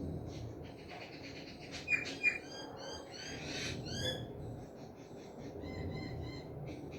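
Several small birds chirping and calling together: rapid high chirps and quick downward-sliding notes, with two sharper, louder calls about two seconds in.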